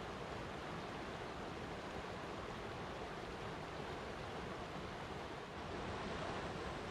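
Flowing water rushing steadily, an even hiss with no breaks or splashes.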